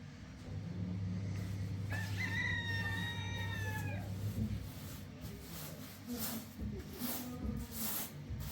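An animal call: one drawn-out cry of about two seconds, falling slightly in pitch, over a low steady hum. Scattered rustles and knocks follow.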